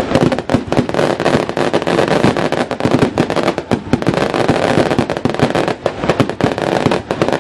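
Fireworks going off in a rapid, unbroken string of bangs and cracks, loud throughout.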